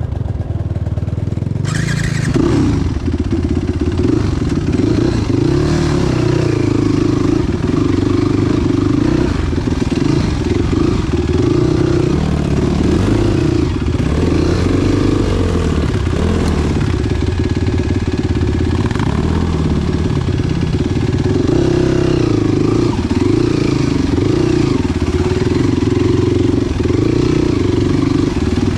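Enduro motorcycle engine running continuously under changing throttle, its pitch rising and falling as the bike is ridden.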